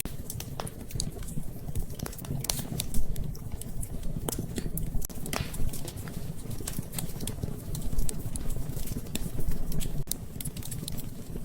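Wood fire in a fireplace crackling, with irregular sharp pops of varying loudness over a low steady rumble.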